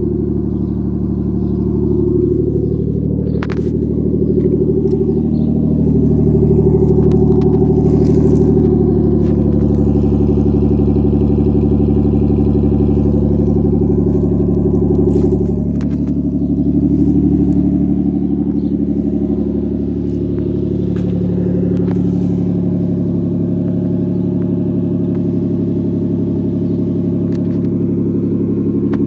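Nissan RB20 non-turbo straight-six running with no exhaust, open from the downpipe: a steady, loud idle with a couple of small rises in revs, around five seconds in and again around sixteen seconds in.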